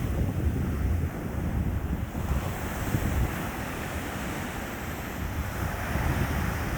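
Sea surf breaking and washing up a beach, its hiss swelling about two seconds in, with wind buffeting the microphone in a low rumble.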